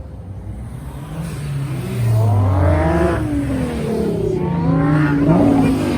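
Car engine revving: the pitch climbs and falls once, peaking about three seconds in, then a second, shorter rev follows near the end.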